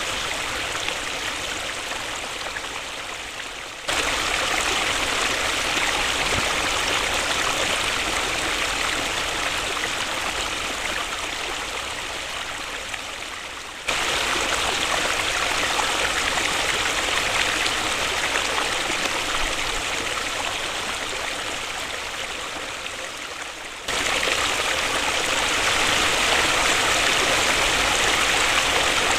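Waterfall, a steady rush of falling water. About every ten seconds the rush slowly softens and then comes back louder all at once, where the recording jumps.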